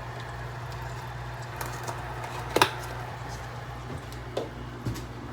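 A few light knocks and clicks, the loudest about halfway through, over a steady low hum.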